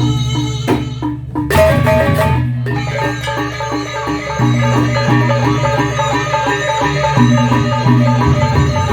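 Instrumental music of a gendang beleq ensemble: fast repeated pitched notes over a held low tone, with a cluster of crashing strokes about a second in.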